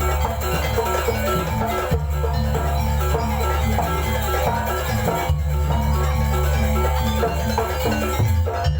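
Jaranan gamelan music: struck metal-keyed instruments play a repeating pattern over drums and a deep, heavy bass that breaks off briefly a few times.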